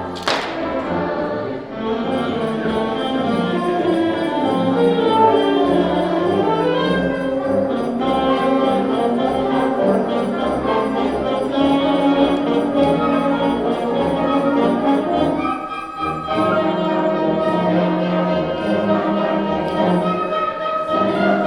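High school band playing a piece live, sustained ensemble chords with brass, with two short lulls, one about two seconds in and one near the end.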